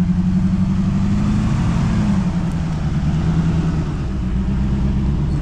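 Jeep Cherokee's engine running at low speed while crawling over rough off-road ground. Its pitch rises a little, drops back about two seconds in, then runs steady.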